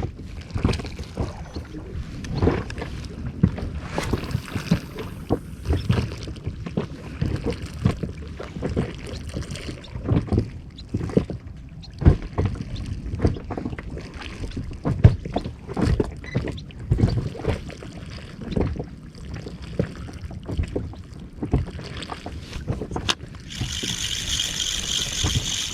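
Water slapping and knocking against the hull of a small inflatable boat: irregular low thumps over wind on the microphone. A steady higher-pitched hiss comes in near the end.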